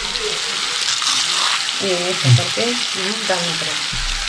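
Onion, tomato and gram-flour mixture sizzling steadily in a wok as crisp papad is crumbled into it by hand.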